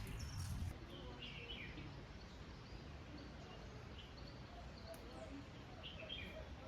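Songbirds chirping faintly in short phrases over a steady low background hiss. A louder rush of noise, like running water, cuts off abruptly under a second in.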